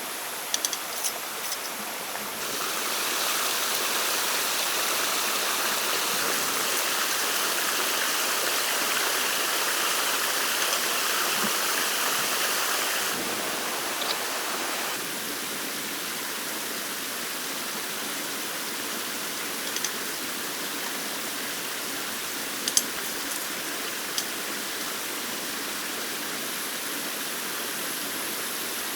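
Running water, a steady rushing that grows louder about two and a half seconds in and drops back down about thirteen seconds in. A few short sharp clicks sound over it.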